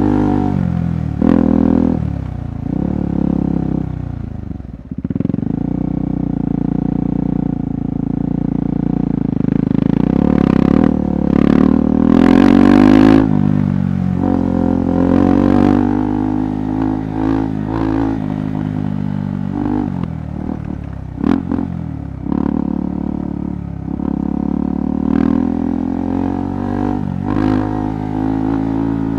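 KTM 390 Adventure's single-cylinder engine running under a rider on a rough trail, the throttle opening and closing so the pitch rises and falls. It dips off throttle about five seconds in and revs up about ten seconds in. Scattered sharp knocks and clatter come over the engine.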